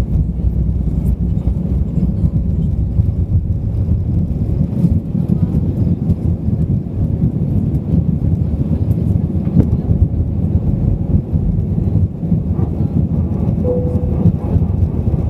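Airbus A320 cabin noise: a steady low rumble of the engines and airflow heard from inside the cabin. A short tone sounds once near the end.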